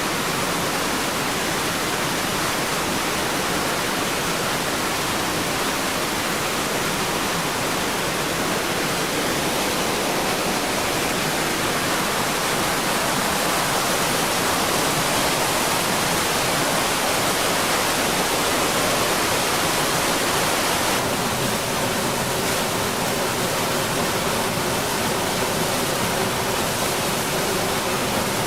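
Floodwater rushing in a torrent, a steady loud wash of water. A faint steady hum joins it about three-quarters of the way through.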